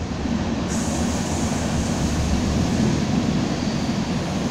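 BNSF freight train's tank cars rolling past below, a steady rumble of wheels on rail. About a second in, a steady high hiss joins the rumble.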